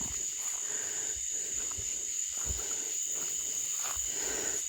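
Night insects in the woods keeping up a steady high-pitched drone.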